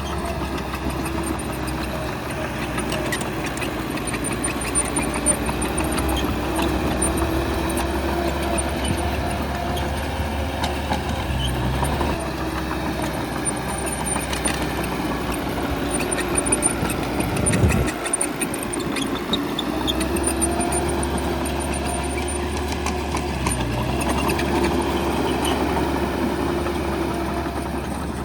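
Bulldozer's diesel engine running while working dirt, its note rising and falling every few seconds, with scattered metallic clanks and rattles.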